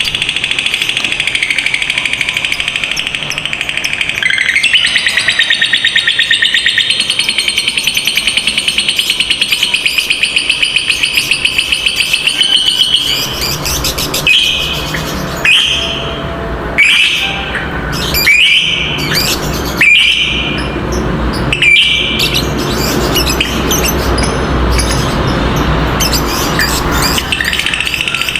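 Lovebirds calling: a long, rapid chattering trill ("ngekek panjang") for about the first half, then a string of short sharp calls roughly every second and a half, with chatter building again near the end.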